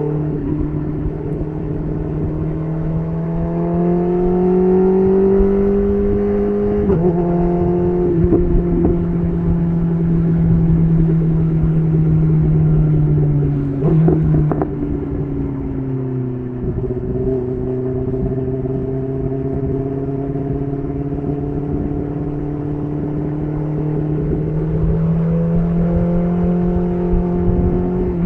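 BMW S1000RR inline-four sport bike engine running through an SC Project titanium exhaust at riding speed. Its pitch climbs steadily for several seconds, dips around seven seconds in, and falls lower about halfway before holding and rising gently again, as the throttle is opened and eased.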